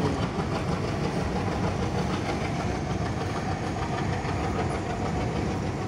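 Freight train's covered box wagons rolling steadily past, the continuous noise of steel wheels running on the rails.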